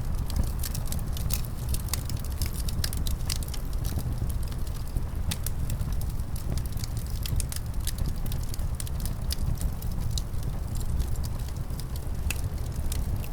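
Wood fire crackling in a fireplace, with many irregular sharp pops and snaps, over a steady low rumble of winter wind.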